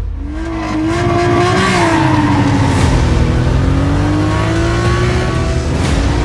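Mitsubishi FTO's engine revving hard on the start line of a drag race. Its pitch climbs over the first couple of seconds, drops back, holds, and climbs again near the end.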